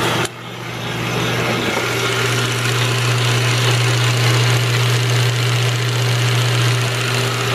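Rong Fu RF-31 mill-drill's 1.5 horsepower motor and spindle running with a steady hum. About a quarter second in the sound drops abruptly, then builds back up over about a second to a steady run.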